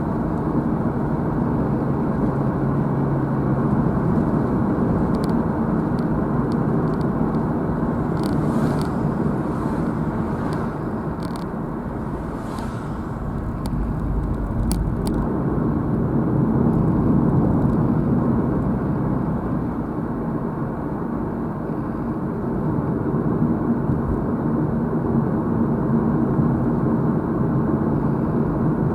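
A car driving: steady engine hum and road rumble from inside the car, swelling and easing as the speed changes, with a few faint ticks.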